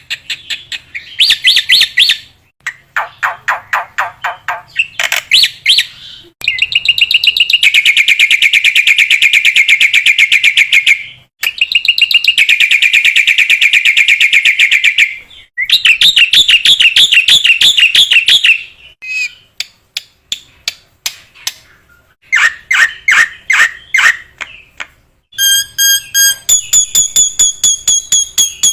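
Black-winged myna (jalak putih) singing a varied song: bursts of rapid repeated chattering notes and long fast trills, turning to clear repeated whistles near the end.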